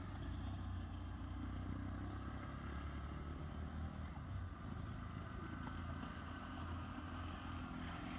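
A vehicle engine running steadily at low revs, a constant low drone.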